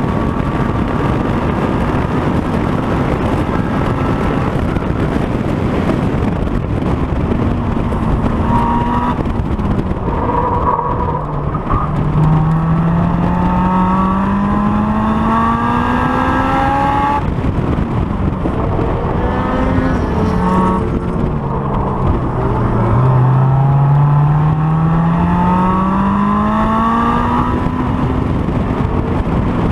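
Honda S2000's four-cylinder engine on track, heard from the rear of the car: revs falling with a few short blips, then two long climbs in pitch under full throttle, each about five seconds long, the first ending in a sudden lift.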